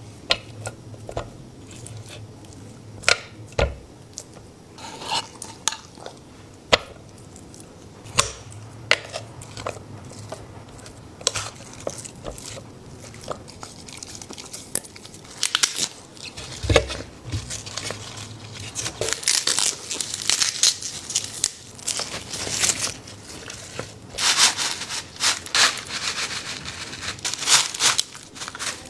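Food and a dish being handled: irregular sharp clicks and clinks, with crinkling and crunching that grows denser in the second half.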